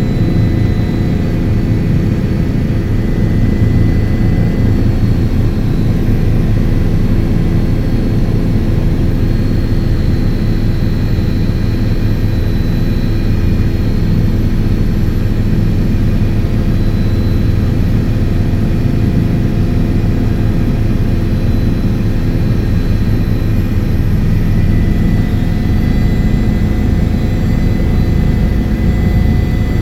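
Helicopter running steadily: a loud, even engine and rotor drone with no change in pitch.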